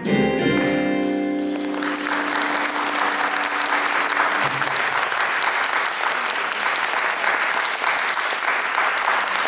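A saxophone ensemble plays the last notes of the song and holds a final chord, which fades out over the next few seconds. From about two seconds in, an audience applauds steadily.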